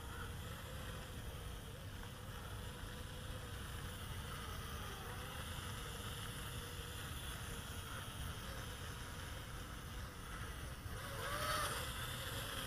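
Attop YD-822 Skyfighter mini quadcopter flying, its small motors and propellers giving a faint steady whine whose pitch wavers slightly, dipping and rising briefly near the end.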